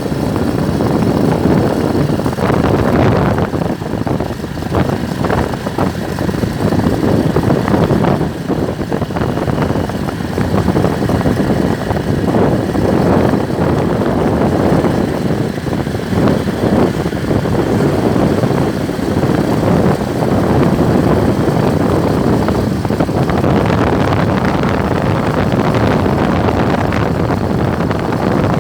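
Steady rush of wind on the microphone with the running and road noise of a moving motorbike.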